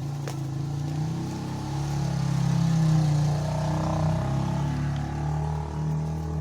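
A low engine hum, growing louder to a peak about three seconds in and then easing off.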